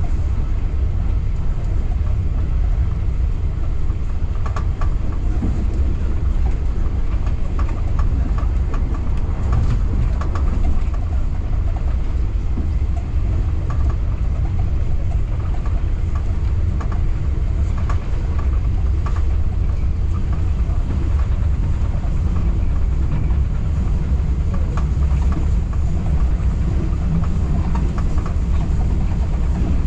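Local passenger train running: a steady, loud low rumble of wheels on the rails, with irregular clicks and knocks from the track.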